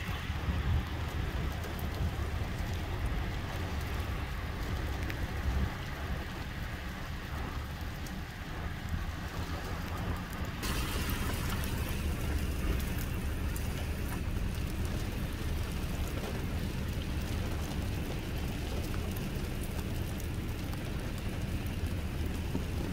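Freezing rain falling: a steady hiss over a low rumble. The hiss turns suddenly brighter and louder about halfway through.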